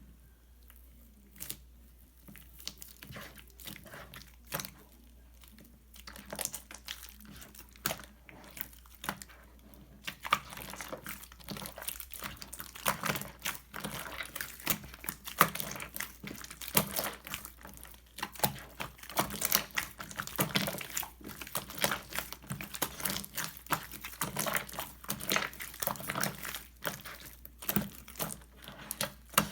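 Slime being kneaded and mixed with soft clay by hand, making small crackling clicks and pops. The clicks are scattered for about the first ten seconds, then come thick and fast.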